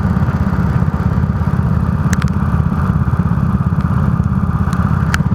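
Go-kart engine running steadily, a low pulsing sound, with a few sharp clicks about two seconds in and again near the end.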